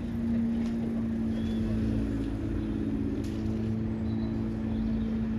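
Steady hum of a vehicle engine idling, with a low rumble underneath.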